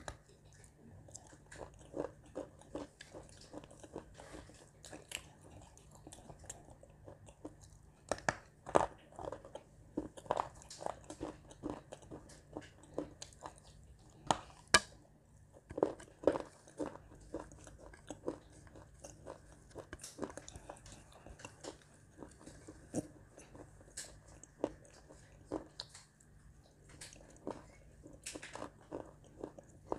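Edible clay being bitten and chewed: irregular crunches and mouth sounds, the sharpest bites about 9 and 15 seconds in.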